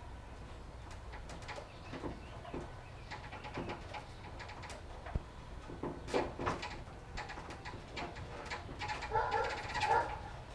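Scattered clicks and knocks of plastic bumper push pins and trim being handled and pressed into place, with a short pitched sound near the end.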